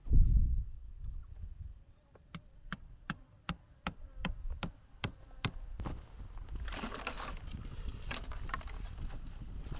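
A thump, then a quick run of about nine sharp knocks, close to three a second, over a steady high hum that stops just after the knocking; rustling and handling noise follow.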